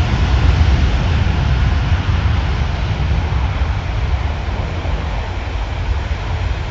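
Jet airliner engines rumbling loudly as a deep, steady roar that slowly fades.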